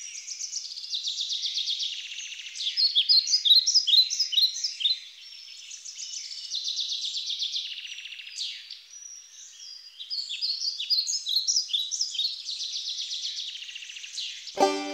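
Several songbirds singing: a busy mix of high chirps, quick sweeping notes and fast rattling trills. Music with plucked strings begins right at the end.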